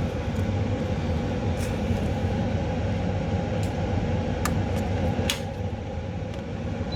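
A machine running steadily with a constant low hum, with a couple of light clicks over it in the middle.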